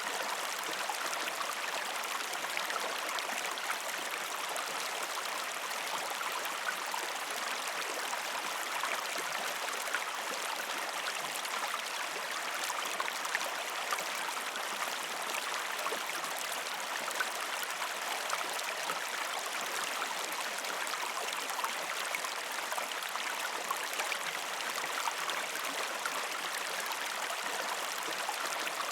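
A gentle river stream flowing over rocks: steady rushing, babbling water with fine splashy ticks throughout and no change in level.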